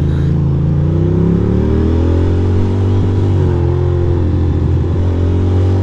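2006 Ducati Monster 620's air-cooled L-twin engine running under way. Its pitch rises steadily for about two seconds, drops back around three seconds in, then holds steady.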